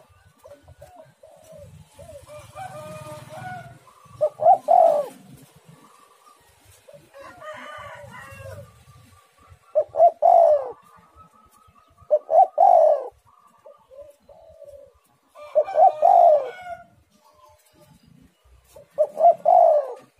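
Spotted dove (tekukur) cooing repeatedly: five loud call phrases every three to four seconds, with fainter coos between them.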